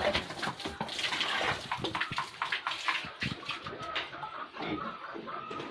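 Water splashing and pouring in irregular bursts, as in washing piglets.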